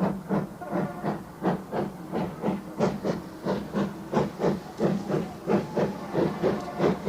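SPS-class 4-4-0 steam locomotive working along, its exhaust chuffing in a steady rhythm of about three beats a second.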